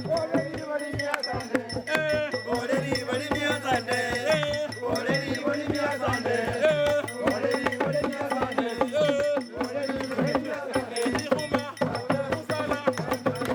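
Isukuti drums beaten in a fast, steady rhythm, with voices singing over the drumming.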